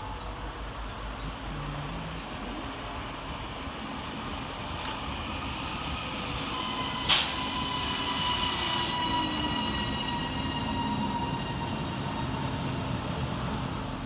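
Northern Class 331 electric multiple unit coming into the station and slowing, its motor whine falling in pitch. From about halfway in, the brakes squeal steadily and a sharp burst of air hiss is heard.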